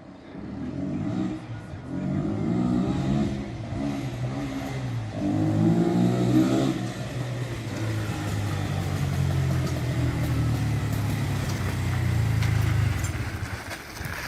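Racer RC150-GY motorcycle's 150 cc single-cylinder engine revved twice, then settling to a steady idle before it is switched off near the end.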